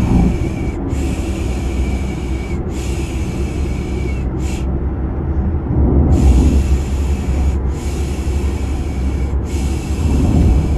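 Steady low car-interior rumble under rhythmic shushing, a baby-soothing 'shhh' (piş piş) sound. The shushes come as three long strokes and a short one, then a pause of about a second and a half before the next set begins.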